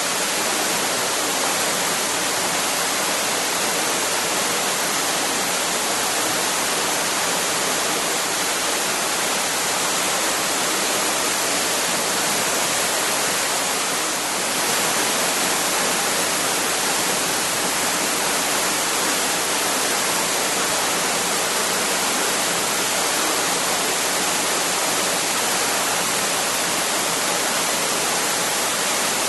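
Waterfall: a steady, dense rush of falling water with no changes.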